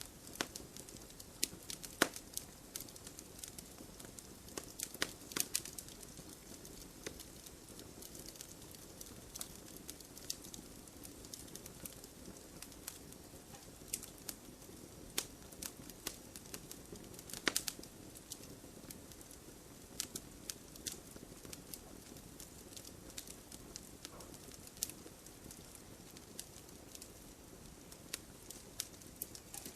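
Wood fire burning in an open fireplace: a soft steady hiss with irregular sharp crackles and pops, a few louder snaps among them.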